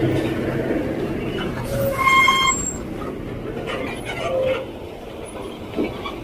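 A motor vehicle passing on the road, its engine hum fading over the first few seconds, with a short high-pitched beep about two seconds in.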